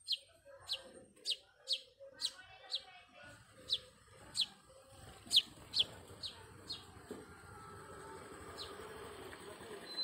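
A bird calling with a run of short, sharp notes that each fall in pitch, about two a second, thinning out after about seven seconds. A low rumble builds underneath in the second half.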